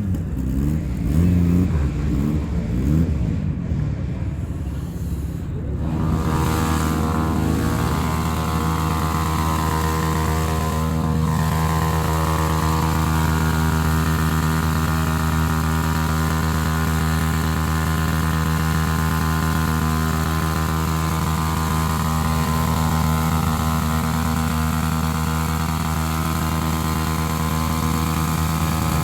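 Motorcycle engines revving up and down for about six seconds, then a motorcycle engine running at a steady, unchanging speed.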